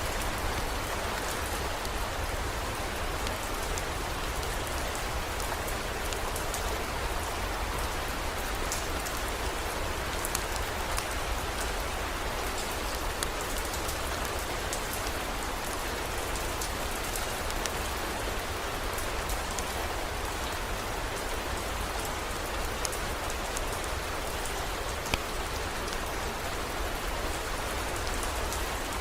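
Steady rain falling, an even hiss with scattered sharp drop ticks over a low steady rumble.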